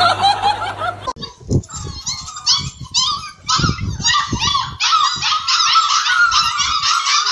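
A litter of puppies crying in a dense chorus of many overlapping high, short calls as they chase after their mother, starting about a second in and growing louder and more continuous toward the end.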